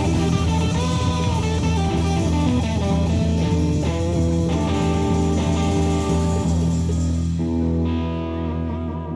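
Live band playing the instrumental close of a rock song, guitar over bass after the last sung chorus, settling onto a held final chord that thins and fades near the end.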